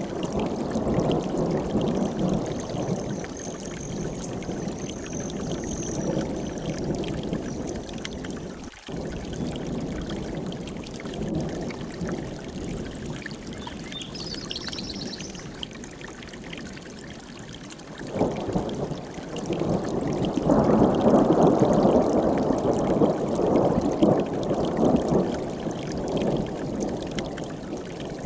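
Mountain stream rushing steadily over rocks, swelling louder about two-thirds of the way in, with brief faint bird calls above it.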